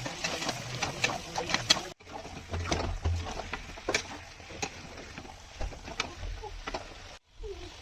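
Kitchen cooking sounds: scattered sharp taps and clinks, as of a utensil against a pot, over a faint hiss, cutting out abruptly twice.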